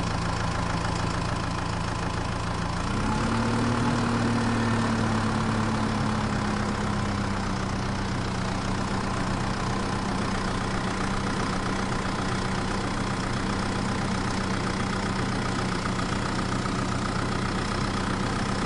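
Mini tractor running loaded with fodder: a steady engine drone whose pitch rises about three seconds in as it pulls away, then eases down to a steady run.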